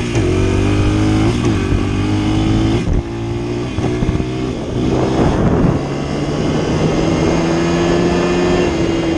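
Dirt bike engine running as it is ridden, its pitch rising and dropping several times with throttle and gear changes, then holding steadier near the end.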